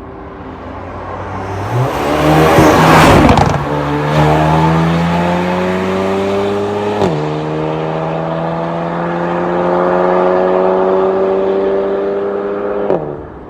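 Mercedes-AMG CLA35's turbocharged 2.0-litre four-cylinder accelerating hard through its valved MS-R cat-back exhaust. It surges loudly two to three seconds in, then the pitch climbs steadily and drops suddenly at two upshifts, about halfway through and again near the end.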